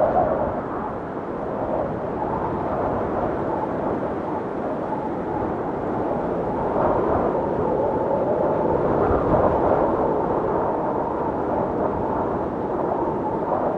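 Snowstorm wind howling steadily, with a faint wavering whistle in the rush, swelling in a gust about seven seconds in.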